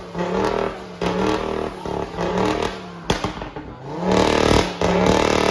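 Car engine being revved over and over, its pitch climbing and dropping with each blip, with a sharp crack about three seconds in.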